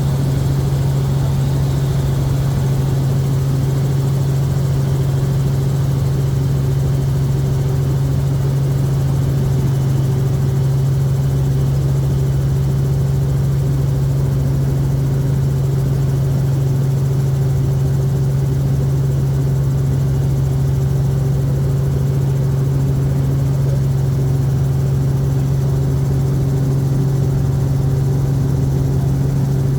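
Helicopter in flight heard from inside the cabin: a steady, unchanging drone with a strong low hum.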